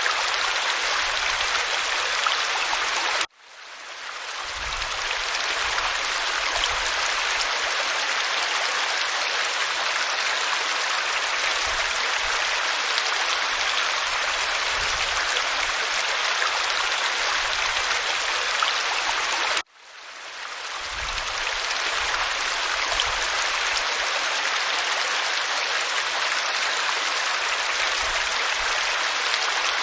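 Waterfall pouring over rock, a steady rushing hiss of falling water. It cuts out abruptly twice, about three seconds in and again near twenty seconds, and fades back in over a couple of seconds each time.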